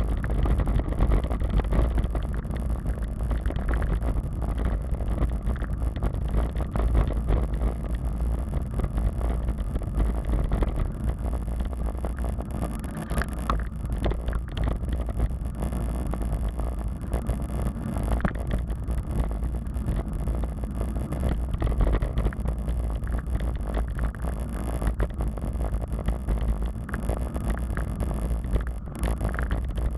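Wind buffeting the microphone of a camera riding on a moving bicycle, a steady low rumble with small rattles and clicks from the bike over the path surface.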